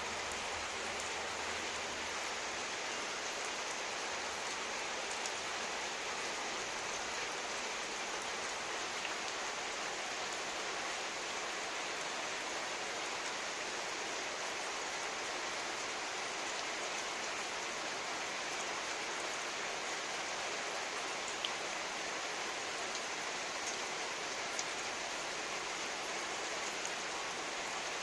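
Heavy rain falling steadily, a constant hiss of downpour with a few individual drop ticks standing out now and then.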